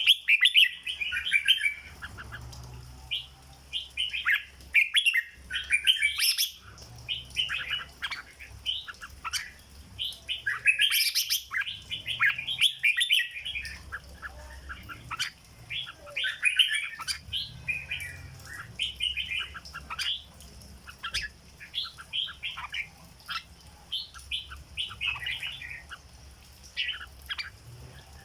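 Red-whiskered bulbul singing: bursts of short, bright warbling phrases separated by brief pauses, repeated over and over.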